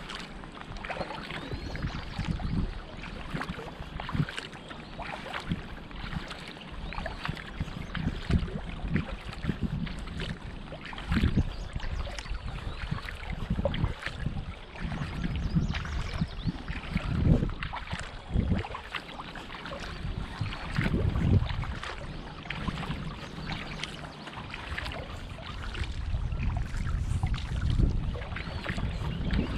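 Kayak paddling: paddle blades dipping and splashing with water dripping off them, in many small splashes and clicks, while wind buffets the microphone in low gusts.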